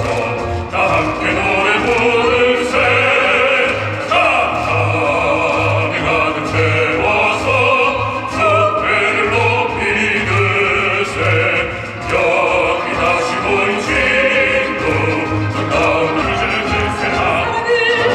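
Operatic singing with instrumental accompaniment: long held notes with vibrato over a steady low beat.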